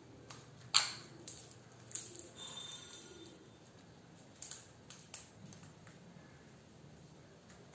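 Parrot feeding: a scatter of sharp clicks and taps of beak and food against a dish, the loudest about three-quarters of a second in, with a brief faint high tone near the middle.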